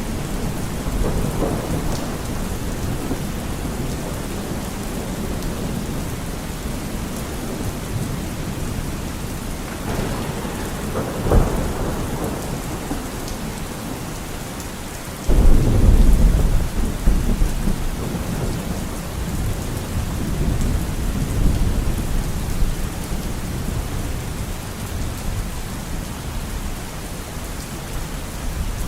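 Steady heavy rain with thunder: a sharp crack about eleven seconds in, then a sudden loud low thunderclap about halfway through that rolls and fades over several seconds.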